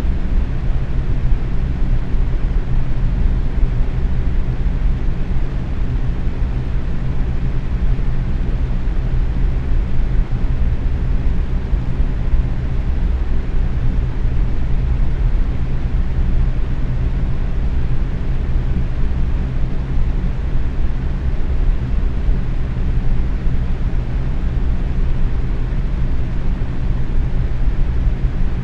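Box fan running steadily at medium speed: a constant whooshing rush of moving air with a low hum from the motor and blades.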